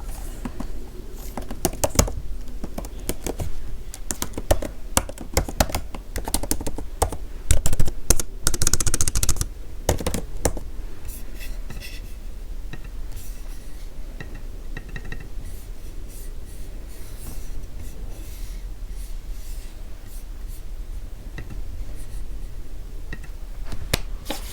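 Typing on a computer keyboard: irregular keystroke clicks, with a faster, louder flurry of typing about eight seconds in, then lighter, sparser keystrokes.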